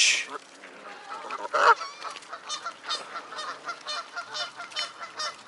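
Waterbirds calling: one loud honk about a second and a half in, then a run of short honking calls at about four a second.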